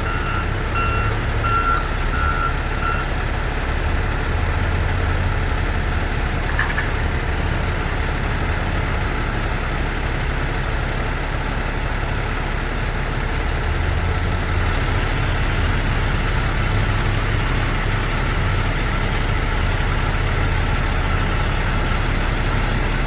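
Heavy truck engine idling steadily, with a reversing alarm beeping about five times in the first three seconds.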